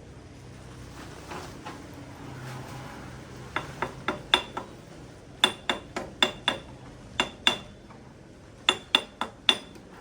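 Metal striking metal: sharp clinks and taps with a brief ring, in quick clusters starting about three and a half seconds in.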